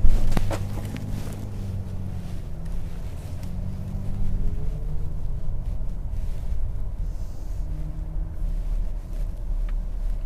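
Mercedes-Benz GLS 400d's inline-six diesel and road noise as the SUV drives at low speed, a steady low drone whose engine note drifts up and down slightly. A sharp knock comes right at the start and a small tick near the end.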